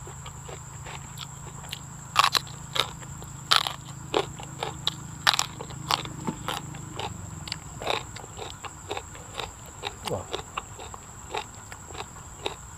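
A person biting and chewing crunchy raw vegetables close to the microphone: irregular crisp crunches and mouth clicks, the loudest about two, three and a half and five seconds in.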